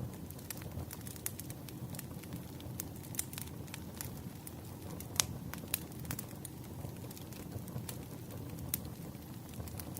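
Firewood burning: a steady low rush of flames with irregular crackles and pops, the sharpest pop about five seconds in.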